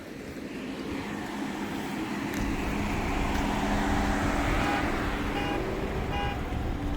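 A car driving past, its engine and road noise swelling to a peak in the middle and easing off. Short electronic beeps sound three times near the end, about 0.7 s apart.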